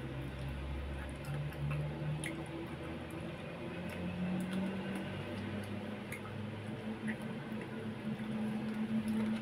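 Close-up eating sounds of someone chewing roast duck and rice by hand: wet mouth smacks and small clicks.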